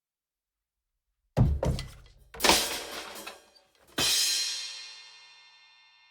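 Drum kit crashing, a cartoon crash sound effect: a clatter of drum hits starting about a second and a half in, a second burst about a second later, then a final cymbal crash that rings and slowly fades.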